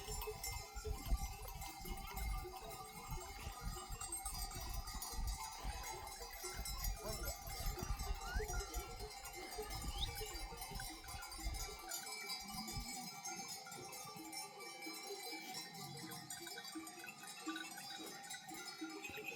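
Bells on a grazing flock of sheep, clanking and ringing unevenly as the animals move. A low rumble underneath stops about twelve seconds in.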